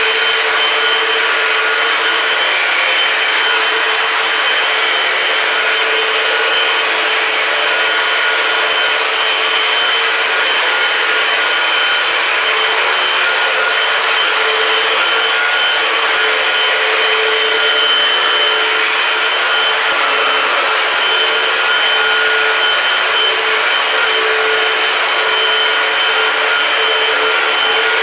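Eureka AirSpeed Multicyclonic Pet upright vacuum cleaner running steadily while vacuuming a kitchen floor, a constant motor whine and rush of air.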